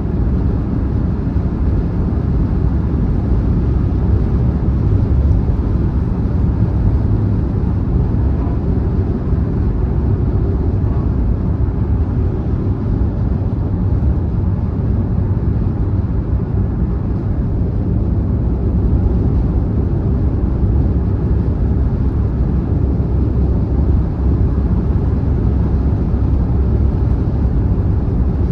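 Steady low road rumble of a car travelling at motorway speed, tyre and wind noise heard from inside the cabin.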